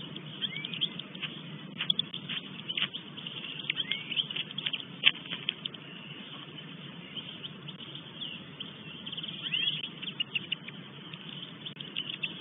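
Birds chirping in short, scattered high calls and ticks, some of them quick curved chirps, over a steady low background rumble.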